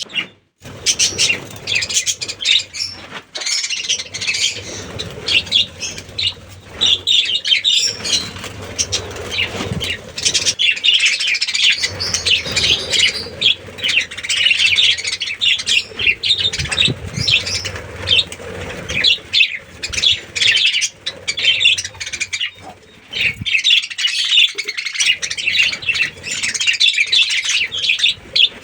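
A colony of budgerigars chattering and chirping, many high calls overlapping continuously.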